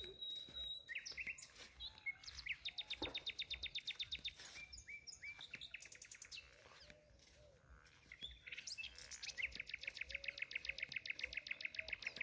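Birds chirping, with long fast trills of evenly repeated high notes, about nine a second: one run about two seconds in and a longer one starting about nine seconds in, with scattered single chirps between.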